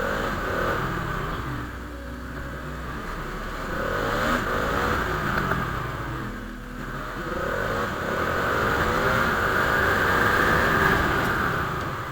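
Motorcycle engine revving up several times as the bike accelerates, its pitch climbing, then easing off between rises.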